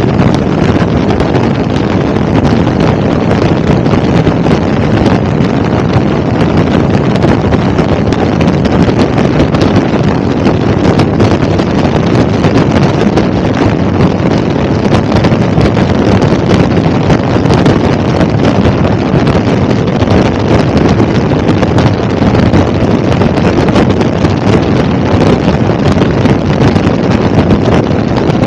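Helicopter in flight: loud, steady engine and rotor noise with wind buffeting the microphone.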